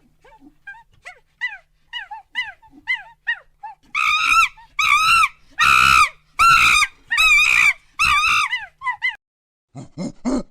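An animal's repeated high-pitched calls: soft short chirps at first, then from about four seconds in louder, longer arching cries about one every 0.7 seconds, then a few shorter, lower calls near the end.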